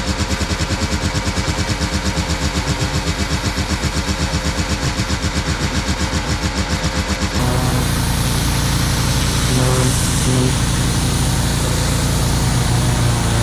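An engine-driven machine running with a rapid, even pulsing beat, about seven or eight beats a second; about seven seconds in it cuts off abruptly and a steady engine drone takes over.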